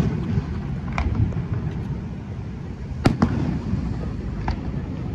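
Distant aerial fireworks shells bursting: a few sharp bangs, the loudest pair about three seconds in, over a steady low rumble.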